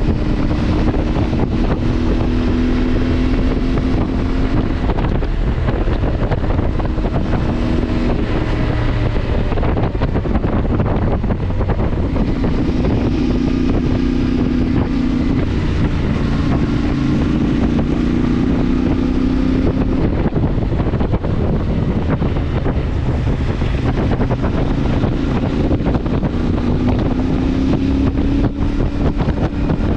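CFMoto motorcycle engine running under way, its pitch rising and falling as the speed changes, with heavy wind rumble on the microphone.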